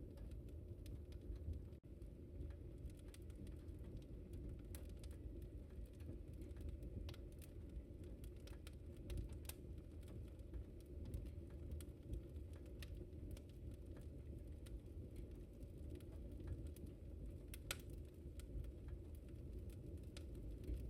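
Wood fire crackling in a fireplace: irregular small snaps and pops over a low steady rumble, with a sharper pop near the end.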